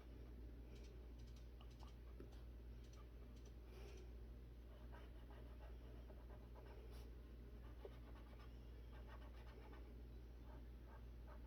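Faint scratching of a dual brush pen colouring on paper, in many short, irregular strokes, over a low steady hum.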